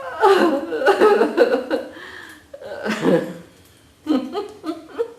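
Laughter-yoga laughing: loud bursts of voiced laughter with short pauses between them, then a run of short, rhythmic 'ha' pulses near the end.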